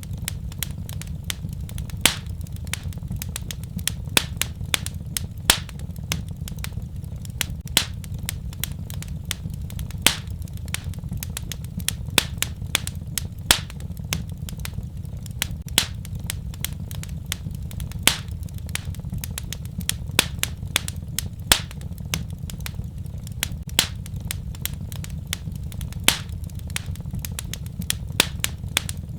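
Wood fire crackling in a fireplace: a dense run of sharp pops and snaps, a few louder than the rest, over a steady low rumble of flame.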